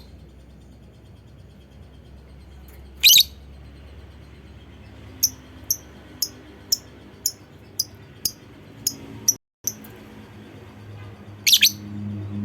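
Lovebird calling: a loud, harsh shriek about three seconds in, then a run of short, sharp chirps about two a second for some four seconds, and another shriek near the end. A faint low hum sits underneath.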